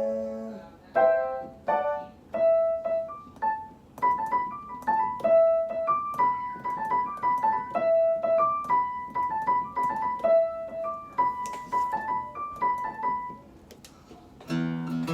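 Piano playing a melody of single notes, an instrumental break in a song. Just before the end a strummed chord comes in.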